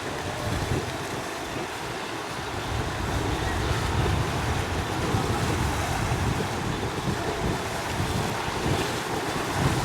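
Strong gusty wind buffeting the microphone, over the steady wash of choppy water and waves. The wind rumble grows a little louder a few seconds in.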